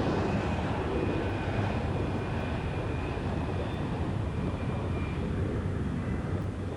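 Jet airliner engines at takeoff power during a departure: a steady rumble with a faint whine that slowly fades.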